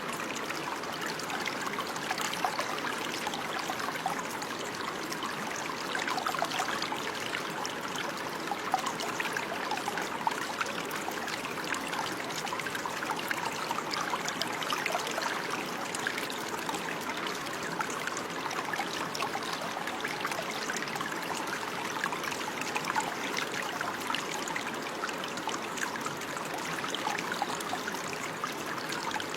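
Running water, a steady babbling stream or brook with fine splashing and trickling.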